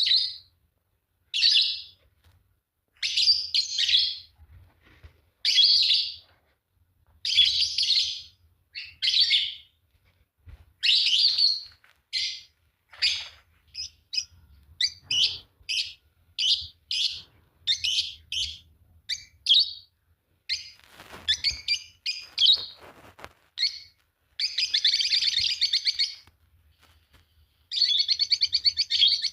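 A pair of Fischer's lovebirds chirping: high calls about once a second at first, coming faster midway, then long runs of rapid chattering near the end.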